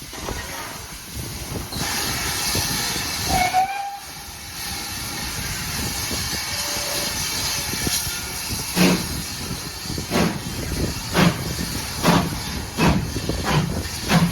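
Steam locomotive hissing as it blows off steam, with a brief whistle note. About nine seconds in it starts away, its exhaust chuffs coming a little faster with each beat.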